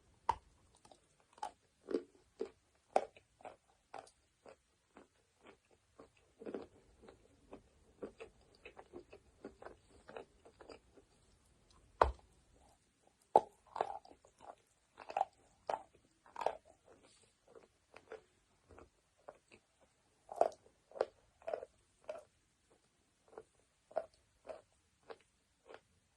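Close-miked chewing of chalk and clay: irregular crisp crunches, a few a second, some much louder than others.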